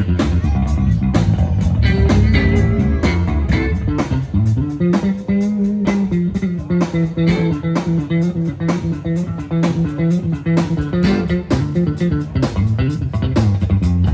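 Blues music with a prominent electric bass line moving between held notes, over a steady drumbeat.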